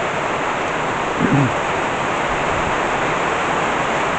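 Heavy tropical rain falling steadily, a dense even hiss as the thunderstorm downpour starts to ease. A brief low voice-like sound a little over a second in.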